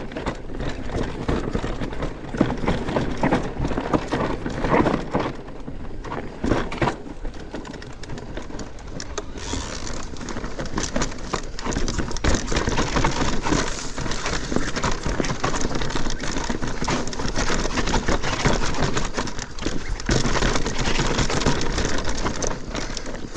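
Mountain bike riding down a rough dirt trail: tyres rumbling over dirt and rocks, with frequent knocks and rattles from the bike over bumps. A steady hiss grows louder about ten seconds in.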